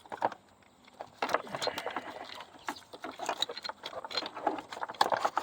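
Irregular clicks, taps and rustling of hands working plastic wiring-harness connectors and loose wires in a car's engine bay.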